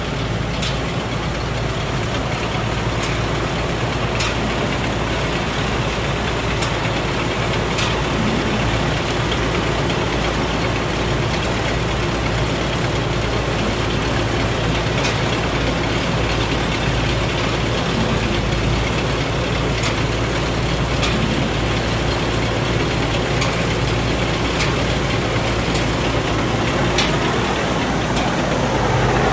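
Thai Seng Yont combine harvester running steadily, a continuous heavy engine and machinery sound.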